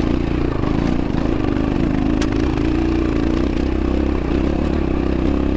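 X-Pro Templar X 250 dirt bike engine pulling in second gear up a steep hill, its pitch holding fairly steady under the load; the gear proves too tall for the climb. A single sharp tick about two seconds in.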